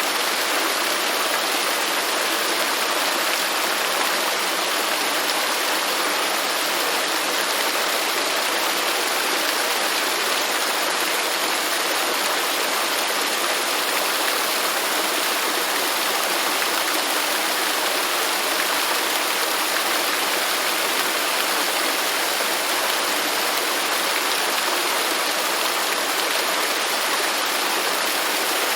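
Waterfall: falling water in a steady, even rush with no breaks or changes.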